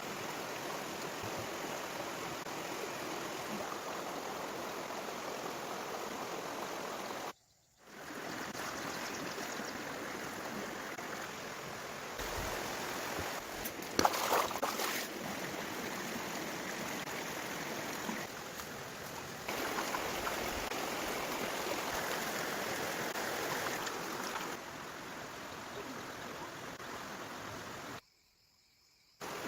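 Steady rushing of running water, with a few brief knocks about halfway through. The sound cuts out twice for a moment.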